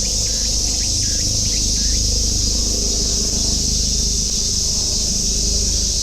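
Summer cicadas droning in a loud, steady, high chorus. In the first two seconds a short call with a falling end repeats about twice a second, and a low rumble runs underneath.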